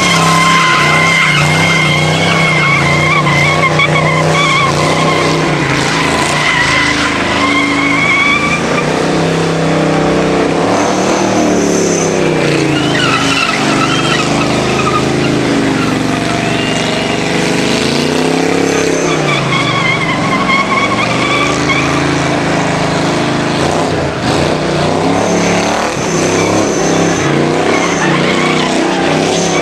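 American V8 car doing a burnout. The engine is held at high revs, rising and falling, while the spinning tyres squeal. The squeal is strongest for the first several seconds and again about two-thirds of the way through.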